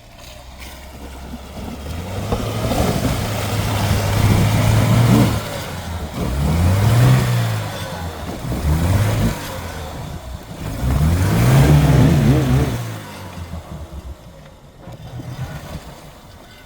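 An off-road SUV's engine revving up and down under load several times, the pitch climbing and falling in repeated surges. It drops to a lower, quieter run near the end.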